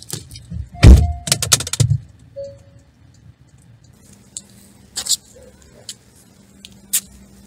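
A car door is slammed shut about a second in, cutting off a short repeating warning beep, and is followed by a quick rattle of clicks. Then come a few scattered sharp ticks and taps.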